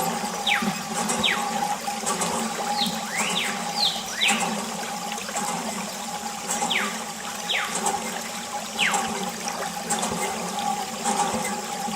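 Water running and splashing from a mini water pump, over a steady hum. Several quick high whistles fall in pitch now and then.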